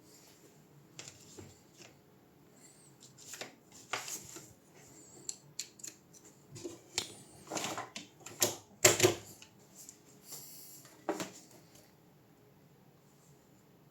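Irregular clicks, taps and knocks of small hard parts and tools being handled, with a cluster of louder knocks about eight to nine seconds in.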